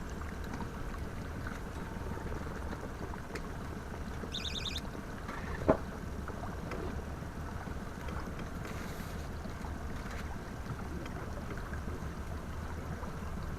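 Steady wind and water noise aboard a pontoon boat in gusty wind. A brief high warbling chirp comes a little before the middle, and a single sharp knock follows about halfway through.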